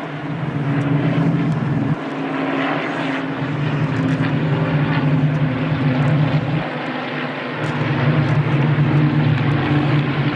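Propeller-driven WWII warbird fighters flying over, their piston engines making a steady drone that swells and dips briefly twice as the aircraft pass.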